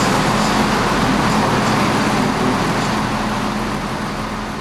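A train running past at the station: a loud, steady rumble and rush with a steady low hum, slowly dying away near the end.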